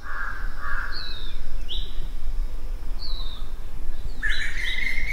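Birds calling over a steady low rumble: two harsh calls at the start, a few short falling chirps, then a long held note starting about four seconds in.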